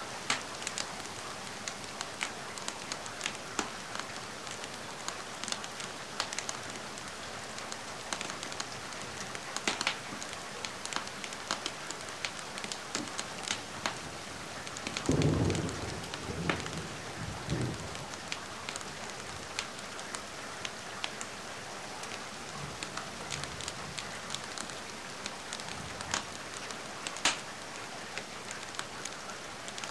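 Steady rain with scattered sharp crackles from a fireplace. About halfway through comes a louder low rumble lasting a few seconds.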